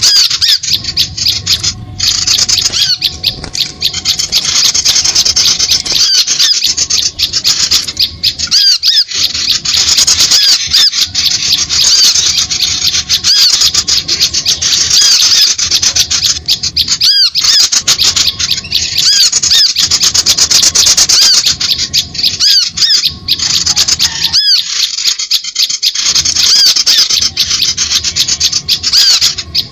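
Bird-lure recording of small birds calling: dense, rapid, high-pitched chattering and squeaking notes packed tightly together, with only a few brief breaks.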